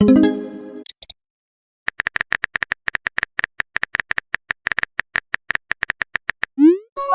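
Chat-app sound effects. A message chime rings out and two short high blips follow. Then comes about four and a half seconds of rapid, even keyboard typing clicks, about seven a second, ending in a quick rising whoosh as a message is sent.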